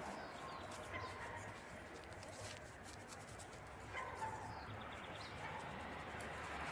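A dog faintly whining or barking twice, about a second in and again about four seconds in, over quiet background hiss.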